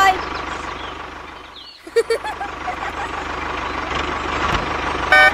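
Tractor engine running with an even low throb. It fades out to a short break about two seconds in, where a few brief chirps sound, then builds up again. A horn honks near the end.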